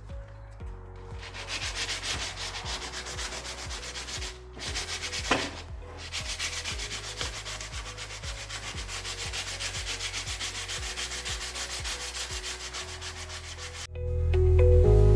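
Sandpaper being rubbed back and forth by hand over body filler on a steel exhaust heat shield, about four strokes a second, smoothing the filled spots, with a brief pause partway through. Faint background music runs underneath and comes up loud near the end.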